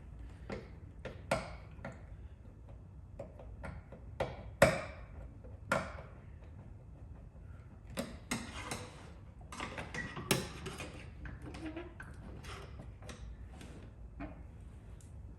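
Irregular light clicks and taps of hand tools working, with a few sharper knocks about a third of the way in and again about two-thirds of the way through.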